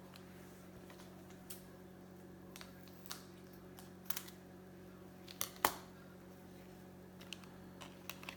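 Baseball cards being handled and flipped through: scattered light clicks and taps, about nine of them, the sharpest a little past halfway, over a steady low hum.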